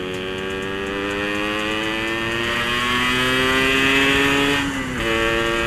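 Yamaha RX-King two-stroke motorcycle engine, with a modified stock-style exhaust, pulling under acceleration. Its pitch climbs steadily for about four and a half seconds, then drops sharply near the end and carries on steady at a lower pitch.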